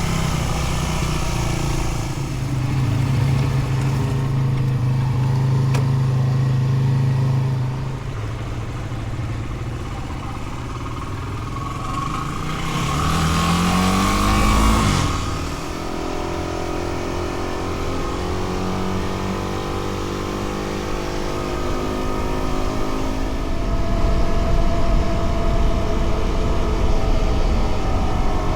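Dual-sport motorcycle engine running on the road. About halfway through it revs up with a rising pitch and a rush of noise, then drops back.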